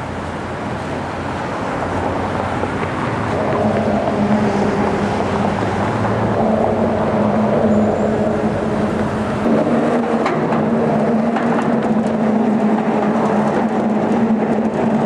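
Engine of a large boat running as it passes close by, a low steady hum with overtones that grows louder over the first few seconds and then holds.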